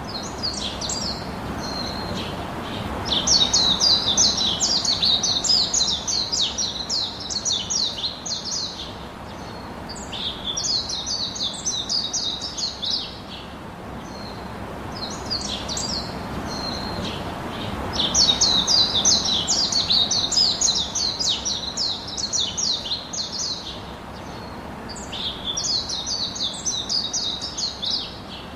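Small birds singing in fast twittering runs of high chirps, in bursts of several seconds with short pauses between, over a steady background hiss. The same passage seems to repeat about every 15 seconds.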